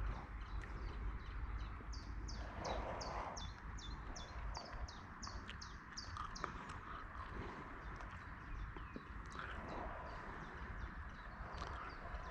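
A bird calling in a fast run of short, high, downward-sliding notes, about two or three a second, fading out after the middle. A steady low rumble lies underneath.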